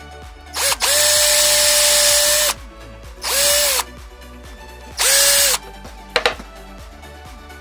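Small high-speed power tool run in three bursts, each spinning up and winding down. The first run lasts about two seconds and the next two are short, followed by a couple of sharp clicks.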